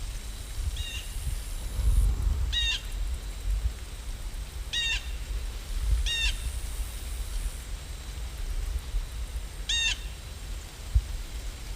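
Bird calls: five short harsh calls a couple of seconds apart, over a steady low rumble.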